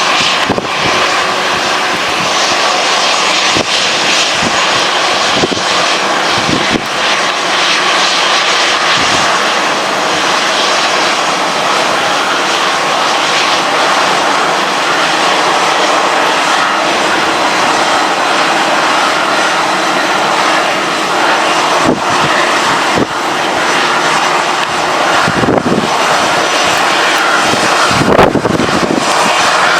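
Jet airliner engines running close by, a steady loud noise with a faint tone through it, from the Boeing 737-800's CFM56 turbofans. A few low thumps come in the second half.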